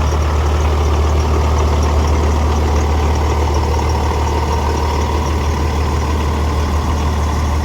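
Vehicle engine running steadily with a deep low hum and no change in speed.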